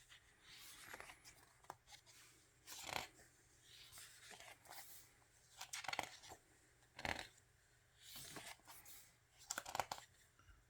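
Album photo book being handled and its pages turned: an irregular run of soft paper rustles and swishes, strongest near the middle and near the end.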